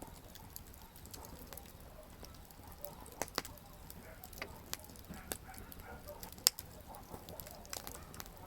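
Wood campfire burning and crackling, with irregular sharp pops from the burning firewood over a low steady hiss. The loudest pop comes about six and a half seconds in.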